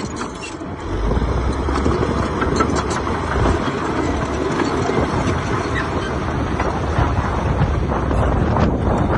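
Diesel engine of heavy earthmoving equipment running, a steady rumble with scattered clanks and rattles, picking up about a second in.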